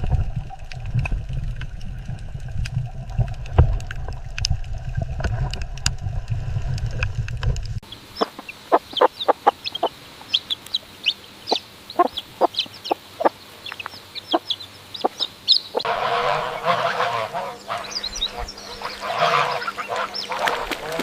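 Three different animal recordings in a row, each ending in a hard cut about 8 and 16 seconds in. The later two are domestic fowl calling: first sharp single calls with high chirps, then a dense flock chorus.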